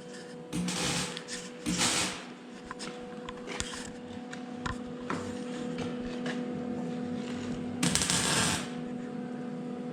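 Electric welder laying short tack welds on a sheet-metal patch in a steel Jeep windshield frame: three brief sizzling bursts, about a second in, around two seconds in and near the end, with scattered small crackles between them and a steady hum under it all.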